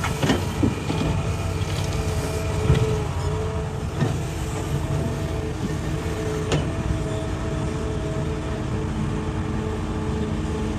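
Hitachi hydraulic excavator working in rock: diesel engine running with a hydraulic whine that comes and goes, and several sharp knocks of the bucket striking rock, the loudest about three seconds in.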